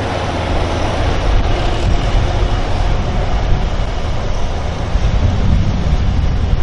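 Tractor engine running hard under heavy load while pulling a weight-transfer sled down the track, a loud steady rumble that grows louder about a second in.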